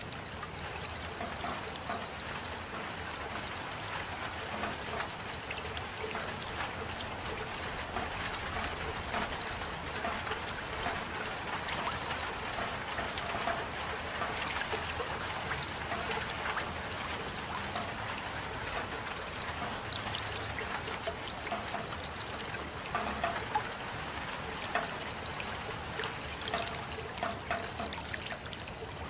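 Steady rain: an even wash of falling water with many separate drops ticking through it.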